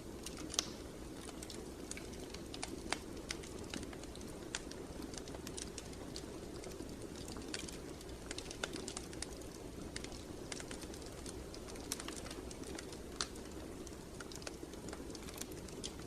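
Wood fire in a fireplace crackling: irregular sharp snaps and pops over a steady low rushing sound.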